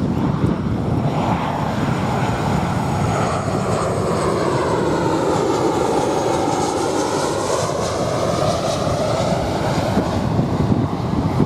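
Jet airliner passing over, a steady rumble with a phasing whoosh that sweeps down in pitch to a low point about two-thirds of the way through and then back up.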